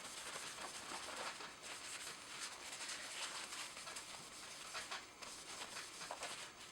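Faint, irregular rubbing of the cold bluing solution being wiped off a steel gun barrel.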